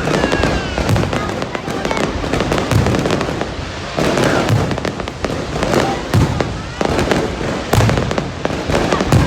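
Fireworks going off continuously: a dense crackle of overlapping bangs, with heavier deep booms about once a second.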